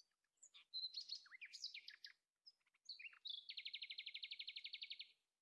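A small bird singing: a string of short high chirps and sliding notes, then a fast, even trill lasting about a second and a half near the end.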